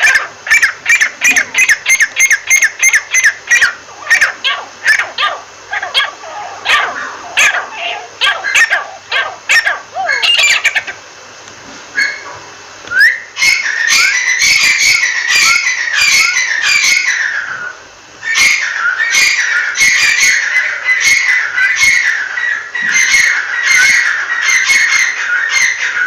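Bird giving loud, sharp call notes in quick repeated runs. About halfway through they pause briefly, then come back denser and overlapping, with another short break a few seconds later.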